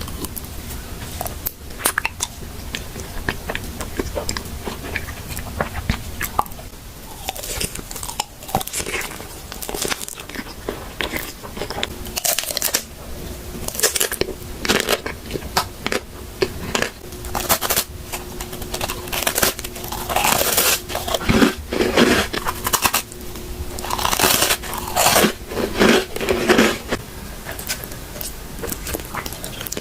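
Close-miked eating: irregular crunching bites and chewing, crackling at an uneven pace and growing busier and louder about halfway through.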